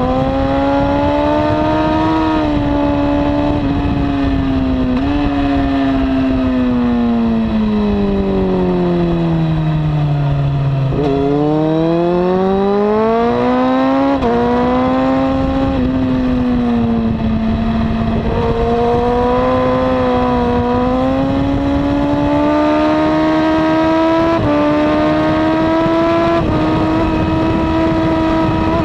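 2002 Honda CBR954RR's inline-four engine with a slip-on exhaust, lapping hard. The note rises and falls in steps through the gears, sinks slowly to its lowest about eleven seconds in, then climbs back, all over a steady rush of noise.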